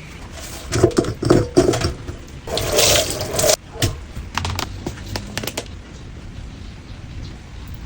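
Cleaning sounds at a sink: a flurry of knocks and taps, then about a second of rushing water that cuts off suddenly, then more scattered clicks before it settles to a faint hiss.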